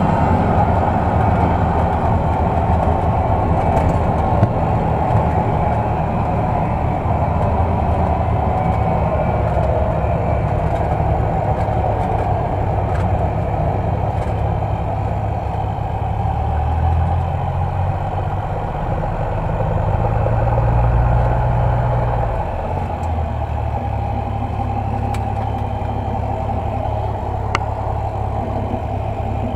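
Cessna F172's piston engine and propeller running steadily at low power. The engine note swells about twenty seconds in and drops back a couple of seconds later.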